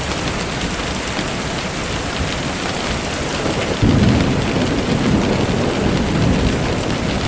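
Steady rain falling, with a low rumble of thunder that comes in suddenly about four seconds in and slowly fades.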